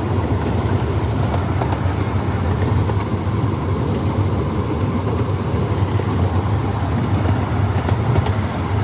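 Miniature amusement-park train running along its track, heard from aboard: a steady, even rumble with a low hum.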